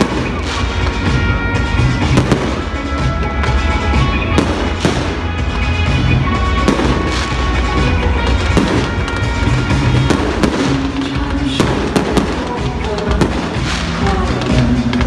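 Fireworks going off in a rapid, irregular string of bangs and crackles, with loud music playing alongside.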